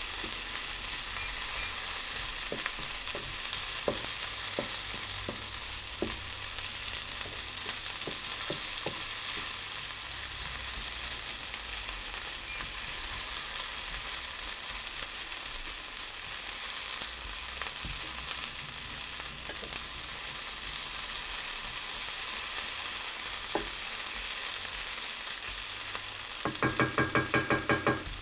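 Food frying and sizzling in a pan, a steady hiss. A few light clicks of a utensil come in the first several seconds. Near the end there is a brief, rapid, rhythmic rattle.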